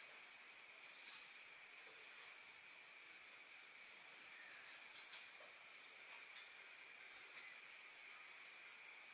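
Orange-headed thrush (anis merah) giving thin, high 'ngecis' calls: three downward-gliding whistles, each about a second long, about three seconds apart. Faint steady high-pitched tones run underneath.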